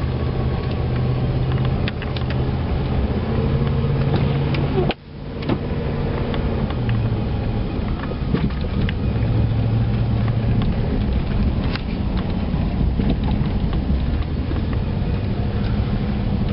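Dodge diesel truck driving, a steady low engine and road drone that swells and eases, with a short drop-out about five seconds in.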